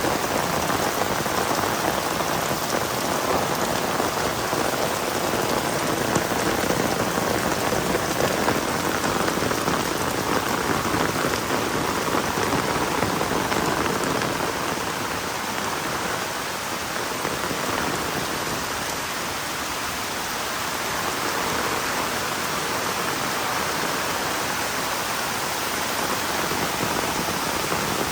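Heavy rain falling steadily, pattering densely on surfaces, easing a little about halfway through and then picking up again.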